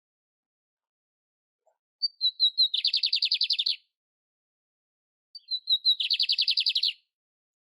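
Canário-império (domestic canary) singing: two matching song phrases a few seconds apart, each a few short high chirps running into a rapid trill about a second long.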